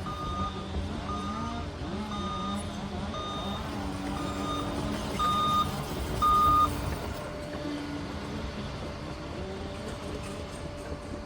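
Heavy crawler dozer's diesel engine running with its reversing alarm beeping about once a second as it backs up; the beeping stops about seven seconds in, the last two beeps louder, while the engine runs on.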